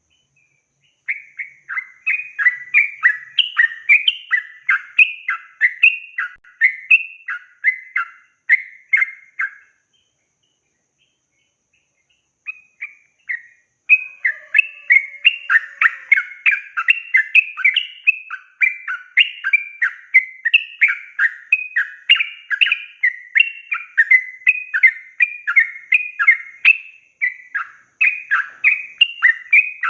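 Yellow-vented bulbul (trucukan) singing a long, rapid run of chattering notes. It stops about ten seconds in, then resumes after a pause of a few seconds and sings on without a break.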